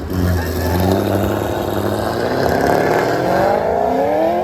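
Car engine running, then revving, its pitch rising steadily through the second half.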